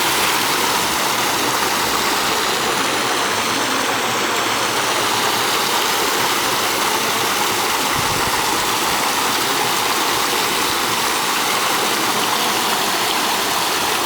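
Poolside waterfalls pouring steadily into a swimming pool, a constant even rush of falling water.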